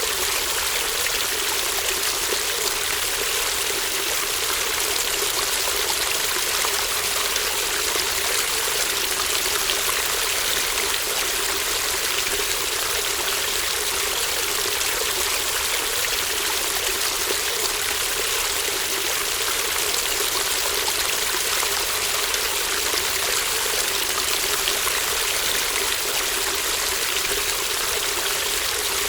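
Shallow stream babbling and trickling steadily over stones, a constant even rush of water.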